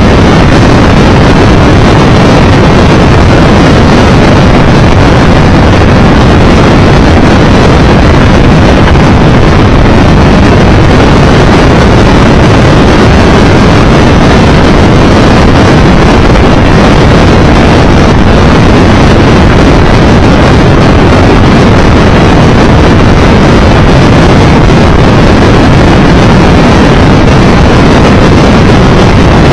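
Loud, steady wind rush on the microphone of a Triumph Tiger Explorer 1200 motorcycle riding at road speed, with the engine and road noise buried under it.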